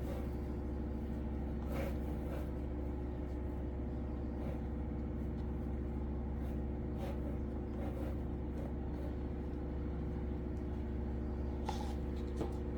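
Steady low machine hum with several fixed tones, unchanging throughout, with a few faint brief clicks on top.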